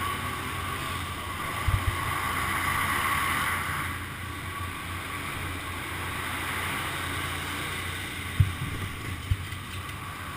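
Motorcycle engine running with wind rushing over a helmet camera, and a few short knocks about two seconds in and near the end.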